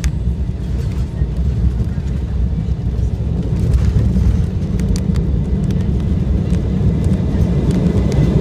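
Airliner cabin noise during the landing: a steady, deep rumble of the engines and airflow that grows gradually louder.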